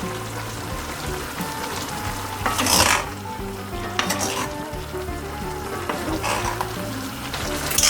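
Food sizzling as it is stir-fried in a hot pan, with a few louder surges of hissing and scraping about three, four and six seconds in as it is stirred and tossed.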